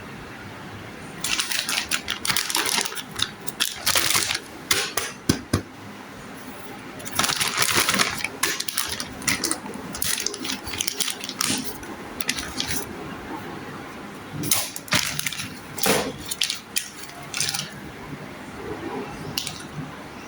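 Toy unboxing handling sounds: repeated bursts of rustling and crinkling packaging mixed with sharp clicks and taps of small plastic animal figures, in irregular spells with short pauses between.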